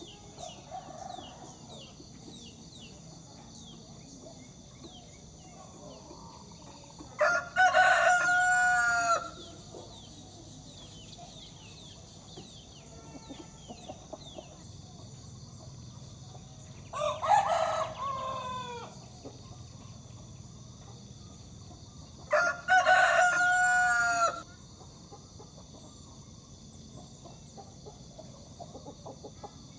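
Broiler rooster crowing three times, each crow about two seconds long, a few seconds apart, over a steady faint high-pitched drone.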